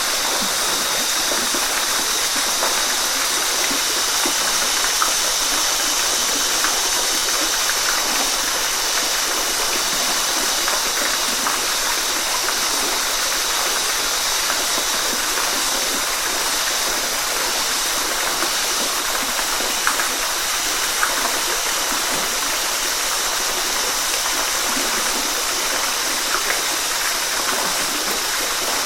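Waterfall: a steady rush of falling and flowing water, with a few small splashes standing out now and then.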